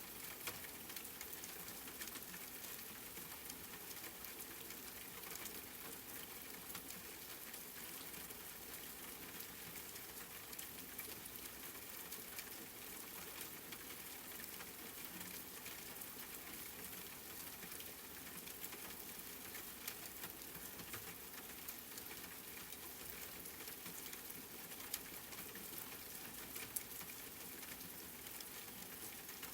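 Steady rain falling, an even hiss with many fine patters of drops and a few louder individual drips.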